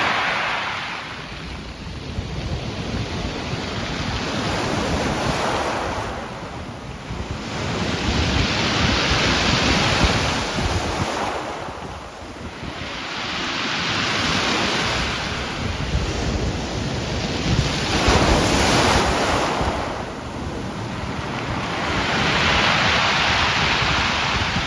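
Black Sea waves breaking on the shore, surging about every four to five seconds, with wind buffeting the microphone.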